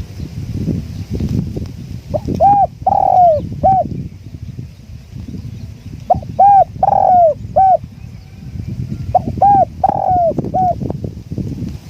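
Spotted dove cooing: three phrases of about four coo notes each, with one longer note in every phrase. Wind buffets the microphone throughout with a low rumble.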